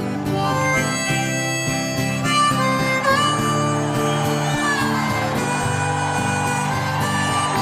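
Harmonica playing an instrumental break over guitar accompaniment, with long held notes and a few bent notes.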